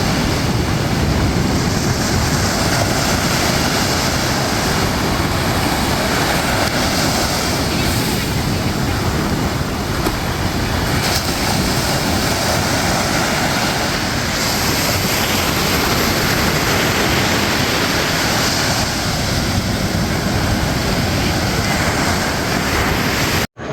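Ocean surf breaking and washing up a beach in a steady, loud wash, with wind rumbling on the microphone.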